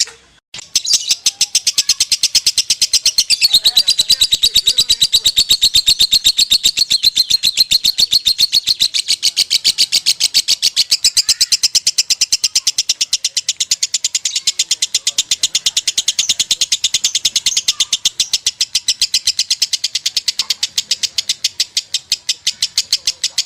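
Lovebird singing a long, unbroken 'ngekek' chatter: shrill chirps repeated rapidly, many a second, in one continuous train. This is the nonstop 'konslet' style of song prized in contest lovebirds.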